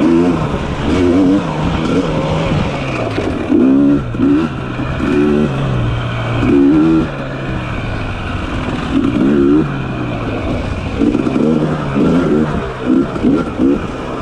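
Dirt bike engine, with the throttle blipped over and over in short bursts, the pitch rising and falling about once a second and more often near the end, over a steady low running note.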